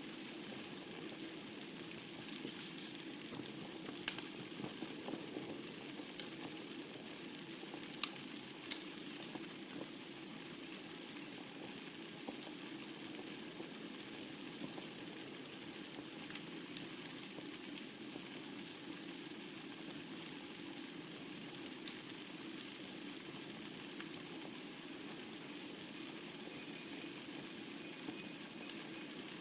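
Wood burning in a fireplace: a steady hiss of flame with scattered sharp crackles and pops, the loudest few coming between about four and nine seconds in.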